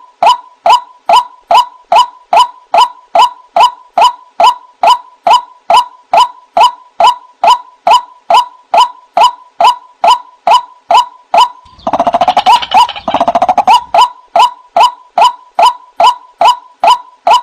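White-breasted waterhen (ruak-ruak) lure recording: a long, evenly spaced run of short identical call notes, about three a second. About twelve seconds in, a burst of harsher, rapid chattering lasts about a second and a half before the regular notes resume.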